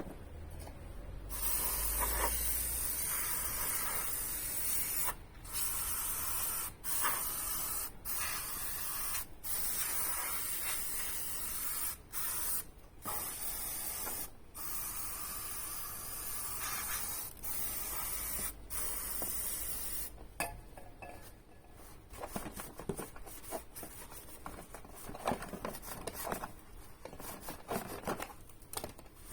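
Aerosol can of parts cleaner spraying in long hissing bursts with several short breaks, for about twenty seconds. Then quieter rubbing and wiping sounds follow.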